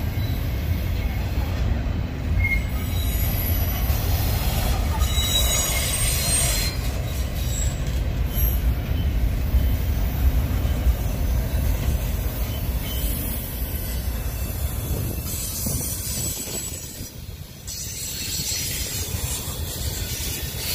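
Double-stack intermodal freight cars rolling past close by: a steady low rumble of steel wheels on rail, with high-pitched wheel squeal that comes and goes, loudest about a third of the way in and again past the middle.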